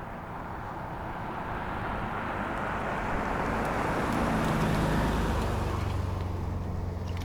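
A vehicle passing close by: its noise swells to its loudest about five seconds in, then eases, with a low steady engine hum underneath near the end.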